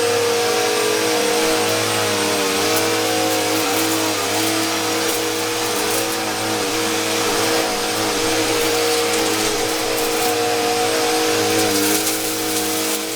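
Eureka upright vacuum cleaner running steadily with a high motor whine and a whoosh of suction, the pitch dipping briefly now and then as it is worked over carpet with the brush height set to medium.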